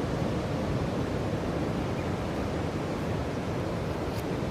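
Steady rush of sea surf, with wind noise on the microphone.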